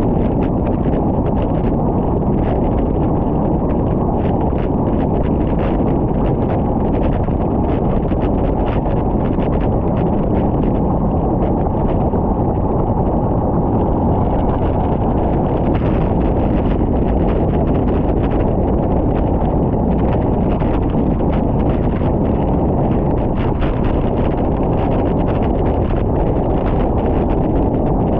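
Steady, loud wind buffeting the microphone of a camera on a bicycle moving along a road.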